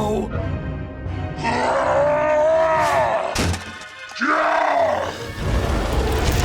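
Background music with two long groaning cries from an animated character, each rising then falling in pitch, the first about a second and a half in and the second about four seconds in.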